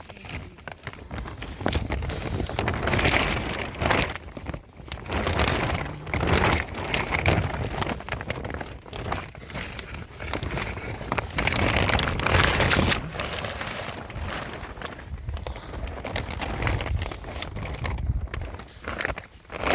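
Plastic sheeting rustling and crinkling in irregular surges, loud for a second or two at a time with sharp crackles.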